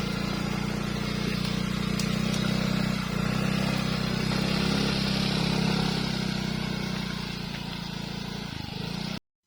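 A vehicle engine running steadily with a low, even hum. It cuts off abruptly near the end.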